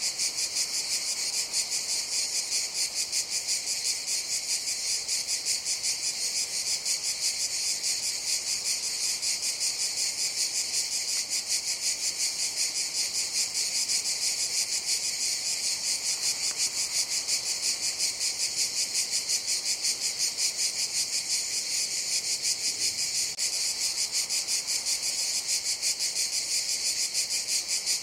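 Cicadas singing in a steady chorus: a high, rapidly pulsing buzz that holds unbroken.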